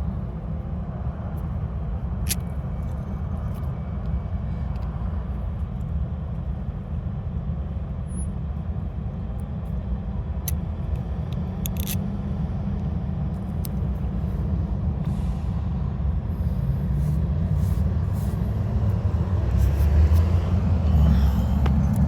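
A motor vehicle running nearby: a steady low rumble that grows louder near the end, with a few light clicks.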